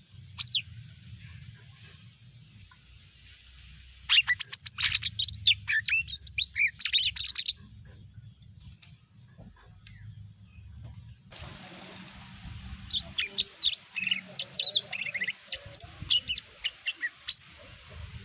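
Cucak ijo mini (a small green leafbird) singing in two bursts of rapid, high chips and warbling phrases, after a single short call.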